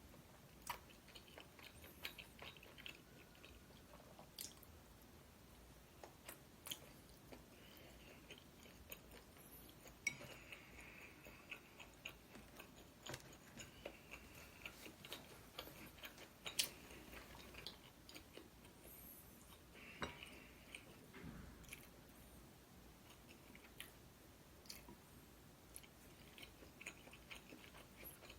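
A person chewing food close to the microphone, quietly, with many scattered sharp mouth clicks and an occasional short crunch.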